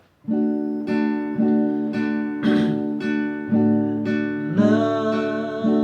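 Acoustic guitar (violão) strummed in a steady one-down, one-up rhythm, about two strokes a second, with the chords ringing on between strokes.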